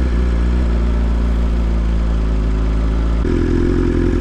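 BMW S1000RR's inline-four engine running at low revs under the rider, with a steady low note that changes about three seconds in.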